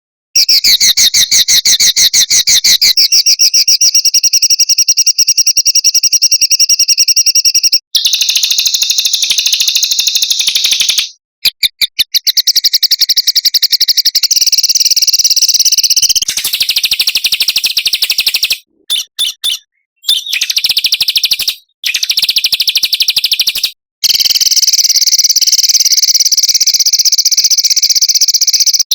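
A small songbird singing long, fast trills of rapid, even, high notes. The passages break off abruptly now and then with brief silences, as in an edited, looped bird-song recording.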